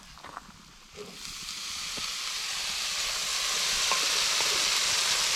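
Onions starting to sizzle in a hot pan, the frying hiss setting in about a second in and growing louder and steady, after a few light knocks.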